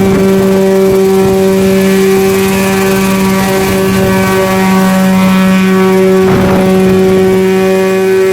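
Homemade coaxial helicopter running, a loud, even drone that holds a steady pitch, with a brief rush of noise about six seconds in.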